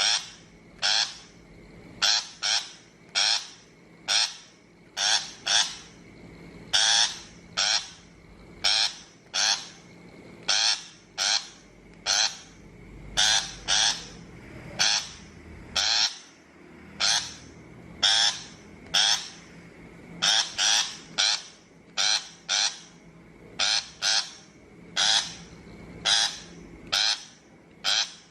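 A shrike giving harsh, raspy calls, about one or two a second and often in quick pairs. It is a steady run of scolding notes from a lure recording.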